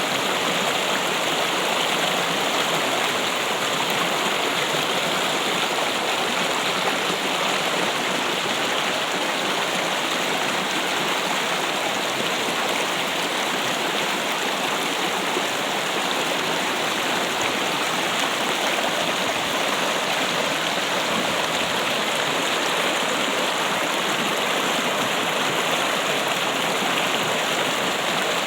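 Running water trickling and splashing in a steady, unbroken rush, like a small stream.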